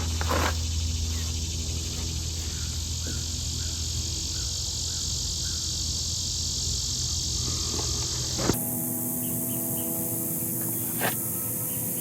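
Steady machine hum with insects chirping over it. About eight and a half seconds in, the sound changes abruptly to a lighter hum.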